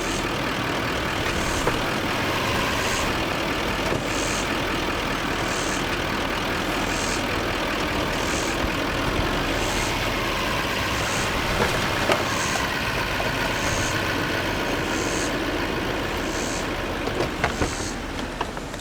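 A truck engine runs steadily under load as it tries to pull a stuck bus out of a hole; the bus's front wheels lift, but it won't climb out. A faint high chirp repeats about every second and a half.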